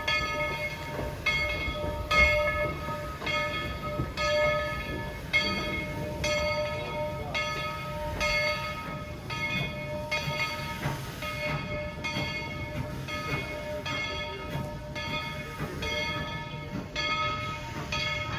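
Locomotive bell ringing steadily, about three strikes every two seconds, over the low rumble of the train rolling.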